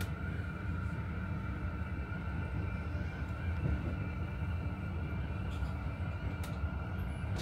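Inside an SL commuter train running on the line: a steady low rumble of wheels on rails with a steady high whine, and a few faint clicks late on.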